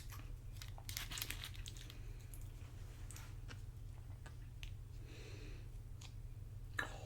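Tortilla chips crackling and crunching as loaded nachos are picked apart and chewed: a cluster of short, sharp crackles about a second in, then scattered clicks and a louder snap near the end, over a steady low hum.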